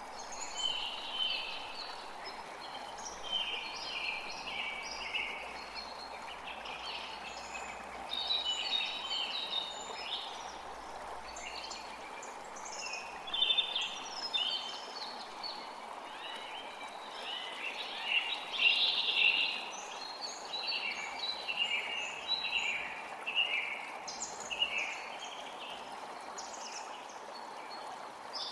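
Birds chirping and singing in many short, quick calls over the steady rush of a forest creek.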